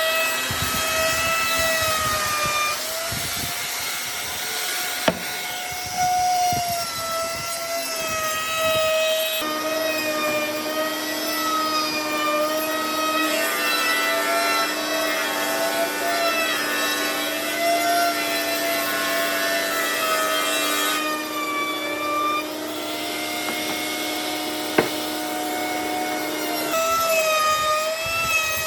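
An electric power tool's motor whining steadily as it works wood, its pitch dipping and recovering as it bears into the cut. A second, lower steady hum joins about a third of the way in and stops near the end, and there are two sharp clicks.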